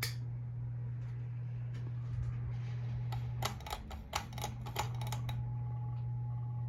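Hampton Bay Carousel ceiling fan (CEI) motor running with a steady low hum. Midway there is a quick run of sharp clicks, and after it a faint steady higher tone.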